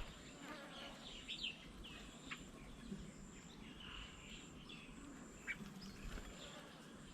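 Faint outdoor chorus of small birds: scattered short chirps and calls, with a thin high steady tone that starts and stops, as from an insect.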